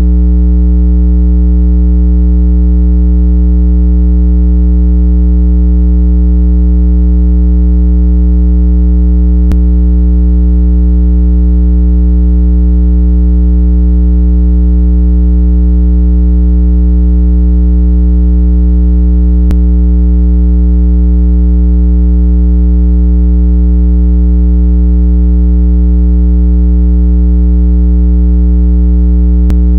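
A continuous, loud, low-pitched electronic tone with a buzzy stack of overtones, held steady as a speaker water-eject sound meant to vibrate trapped water out of earbuds. A faint click comes about every ten seconds.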